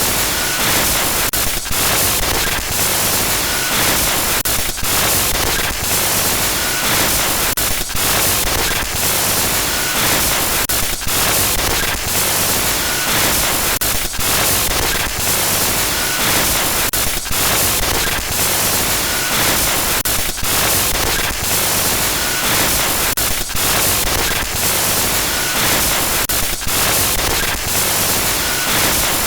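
Loud harsh digital glitch noise: dense static hiss that crackles and stutters with frequent brief dropouts, and a short high blip about every one and a half seconds.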